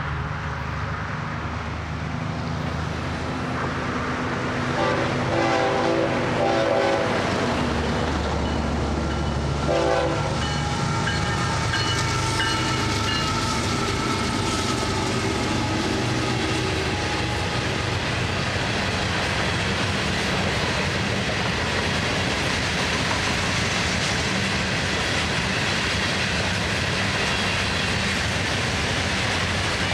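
Freight train diesel locomotive sounding its horn, a longer blast about five seconds in and a short toot about ten seconds in, as the locomotives pass. Then a long string of loaded open hopper cars rolls by with steady wheel noise and clacking on the rail.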